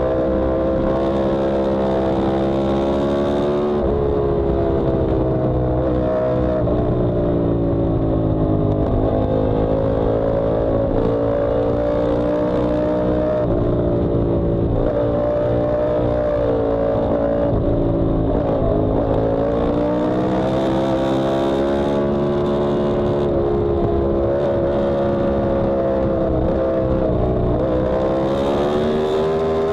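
Yamaha R1M crossplane inline-four engine at track speed, its pitch climbing under acceleration and stepping down with each gear change, then dipping as the bike slows for corners and rising again, several times over.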